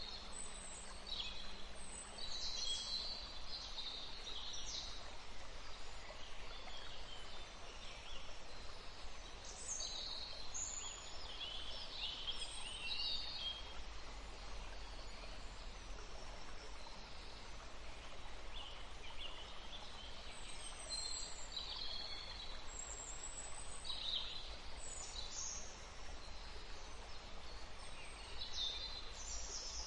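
Birds chirping and singing in short, high calls scattered throughout, over the steady rush of a forest stream.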